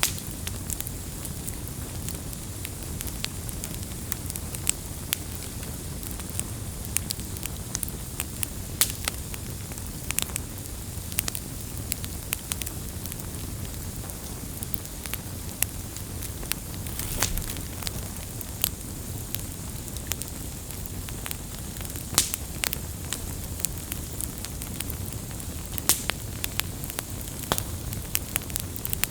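Campfire burning with a steady low rumble and hiss, and irregular sharp crackles and pops of burning wood, a few each second.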